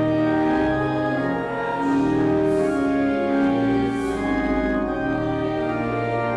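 Church organ playing a hymn in slow, sustained chords that change about once a second.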